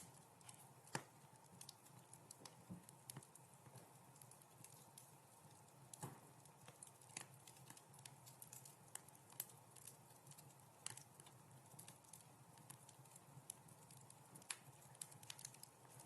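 Wood fire crackling in a fireplace: irregular sharp pops and snaps, a few much louder than the rest, over a faint low background.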